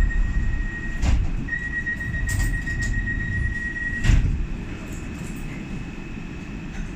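Docklands Light Railway train rumbling along the track, heard from inside the carriage. A steady high wheel squeal sounds in two stretches, with a sharp knock at about 1 s and another at about 4 s, where the squeal stops.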